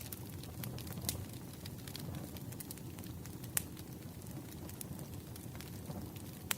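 Wood campfire burning: a steady low rumble of flames with frequent sharp crackles and pops. One louder pop comes about three and a half seconds in.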